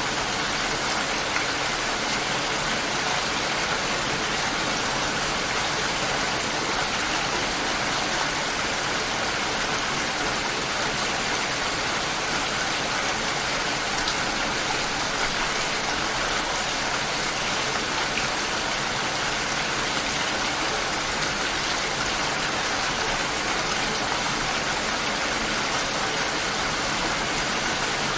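Steady light rain falling, an even hiss of drops with no thunder.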